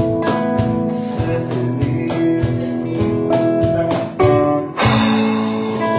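Acoustic guitar strummed in a steady rhythm, its chords ringing, with no singing. The strumming breaks off briefly twice and comes back with hard strokes a little after four and five seconds in.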